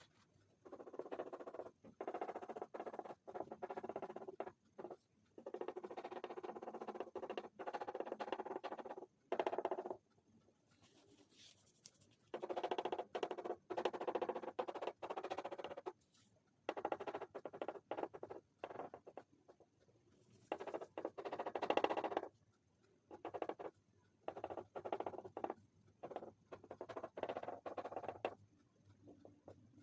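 Pastel rubbing on paper in rapid back-and-forth colouring strokes, coming in stretches of one to three seconds with short pauses between them.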